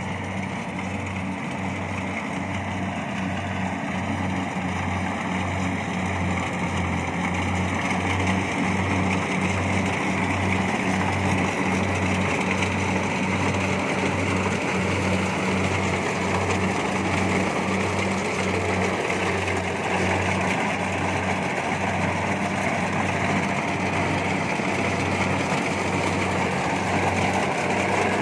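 Kubota DC70 Plus combine harvester's diesel engine running steadily under load while it harvests rice, with a low, evenly pulsing hum; it grows a little louder over the first several seconds, then holds steady.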